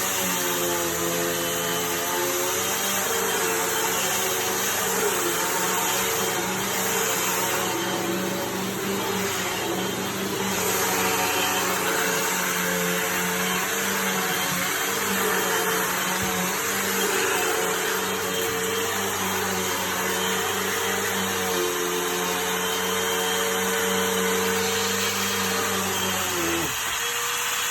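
Hoover vacuum cleaner running steadily, its motor hum and rushing air pulling in dirt with strong suction. Near the end part of the low hum drops away while a single steady tone carries on.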